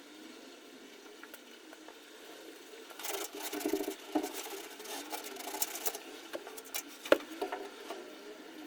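Faint rubbing and scraping with scattered small clicks, busiest from about three to six seconds in, and one sharper click a little after seven seconds.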